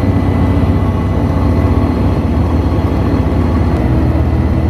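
A heavy engine running steadily nearby, a deep even hum with a fast low pulse.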